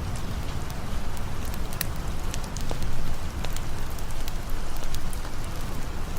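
Steady rain falling together with a crackling campfire: a dense, even rush of rain with a low rumble beneath, and scattered sharp pops and ticks throughout.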